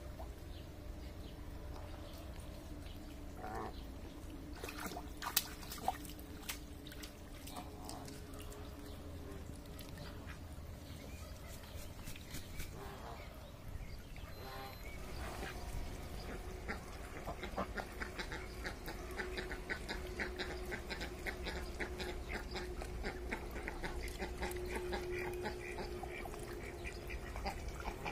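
Ducks calling, with a fast run of short, rapid calls building up in the second half.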